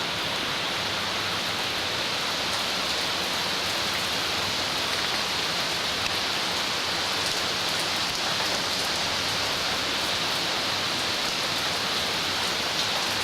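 Heavy rain falling steadily, an even downpour that does not let up.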